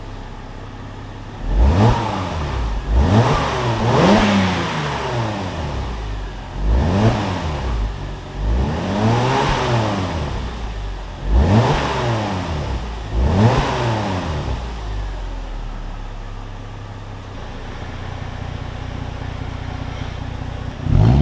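Mercedes E350 V6 exhaust, fitted with an exhaust cutout, being revved six times in quick blips, each rising and falling in pitch. It then settles to a steady idle for the last several seconds.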